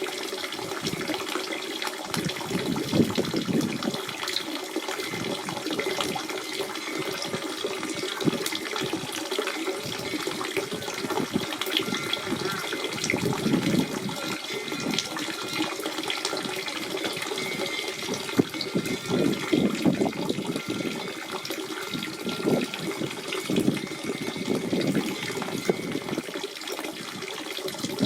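Natural spring water running and splashing steadily, with a continuous babble and frequent small irregular splashes.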